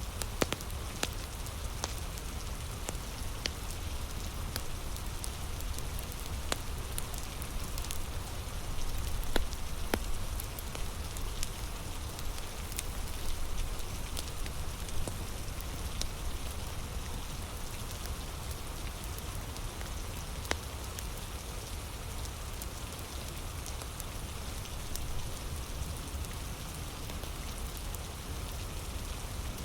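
Heavy rain falling steadily, with scattered sharp crackles and pops from a wood fire.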